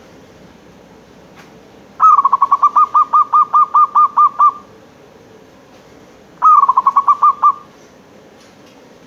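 Zebra dove (perkutut) cooing: two runs of rapid, evenly spaced notes, about five a second. The first run lasts about two and a half seconds, and a shorter one follows some two seconds later.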